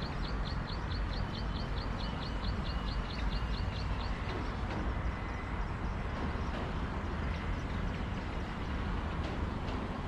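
A bird calling in a rapid series of short, high, falling chirps, about five a second, that stops about four seconds in, over a steady low background rumble.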